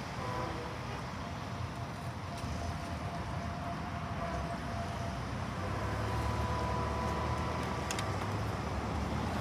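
Distant locomotive horn sounding for a grade crossing: long held chord notes, one over the first half and another later on, over a low rumble that grows a little louder.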